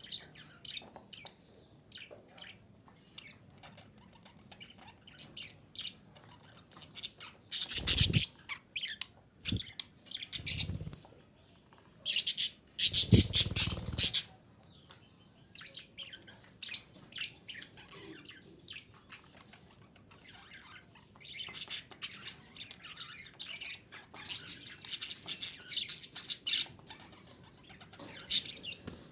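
Female budgerigar chirping and chattering in a run of short high calls and clicks, with louder bursts about 8 and 13 seconds in.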